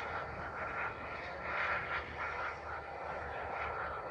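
Airbus A320 jet engines running with a steady whine over a broad rushing noise, swelling slightly about halfway through.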